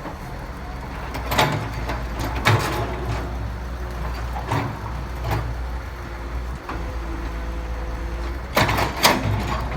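Heavy diesel construction machinery running with a steady low rumble, broken by sharp metallic clanks and knocks every second or two, the loudest cluster near the end.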